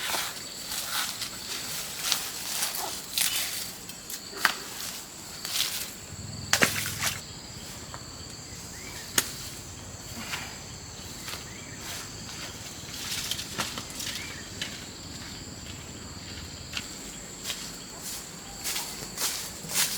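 Insects trilling steadily at two high pitches, with irregular short rustles and knocks over them.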